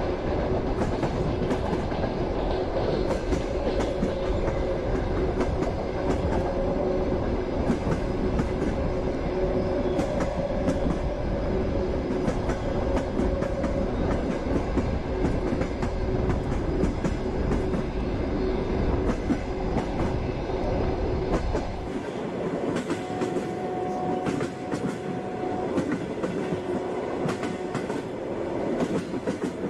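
Passenger train in motion: a steady rolling rumble with the clatter of wheels over rail joints. About 22 seconds in the deep rumble drops away, leaving a lighter rattle.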